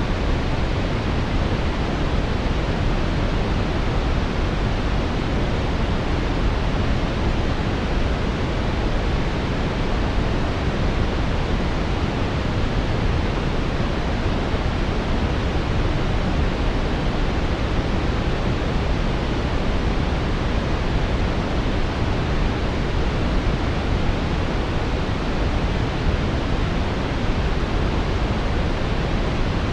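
Steady synthetic brown noise: an even, unbroken hiss weighted toward the low end, with no changes or events.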